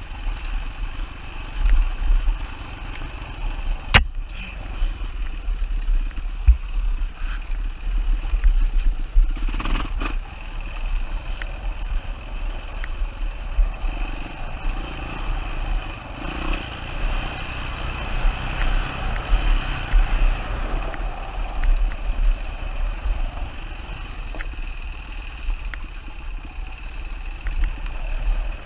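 Single-cylinder four-stroke engine of a 2007 Yamaha WR450 enduro dirt bike running on a trail ride, its level rising and falling with the throttle. Sharp knocks about four seconds in and again near ten seconds.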